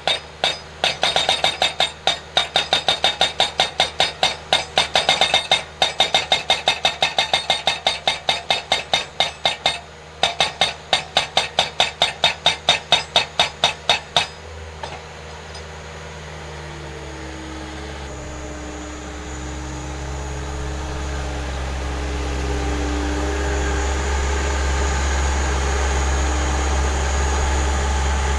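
Eterra PDX-1000 breaker-style skid-steer post driver hammering a post: a fast, even train of sharp metallic blows, about three to four a second, with two brief pauses, that stops about halfway through. After that the skid steer's engine runs steadily, slowly getting louder.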